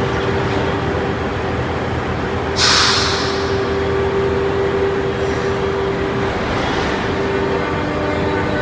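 MI2N double-deck electric train standing ready to depart, with a steady electrical hum carrying a constant tone. A short, loud burst of compressed-air hiss about two and a half seconds in, as its air brakes release.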